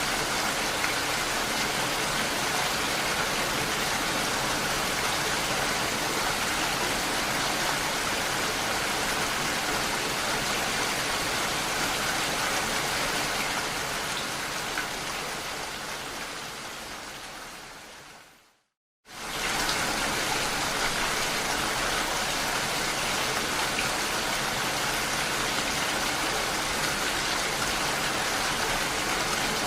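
Steady rain striking window glass. It fades away over a few seconds to a moment of silence about two-thirds of the way through, then comes straight back at full level.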